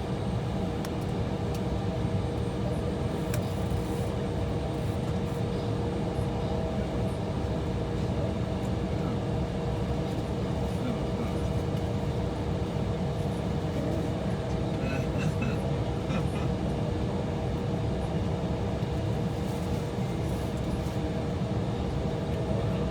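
Steady cabin noise inside an Embraer E175 idling on the taxiway: its GE CF34 turbofans at idle and the air-conditioning packs make a constant low rumble with two steady hum tones, and a few faint ticks come about two-thirds of the way in.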